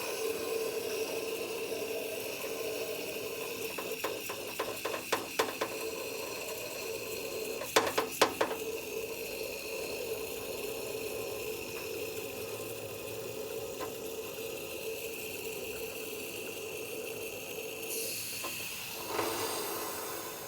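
Aerosol can of Würth diesel particulate filter cleaner spraying in a steady hiss as the whole can is emptied into the DPF system, with a few short clicks and knocks about four and eight seconds in.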